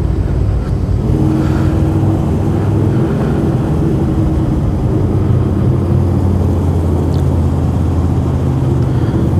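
Motorcycle engine running at a steady speed while riding, with wind and road noise on the microphone.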